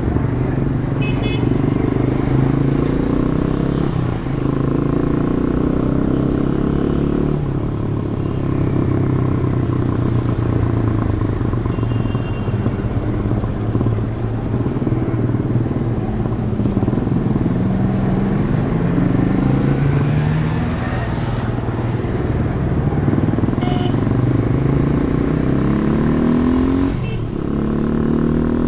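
Demak DTM 150's single-cylinder four-stroke engine through its stock exhaust, pulling through traffic: the note climbs in pitch and drops back several times as it is revved up and shifted.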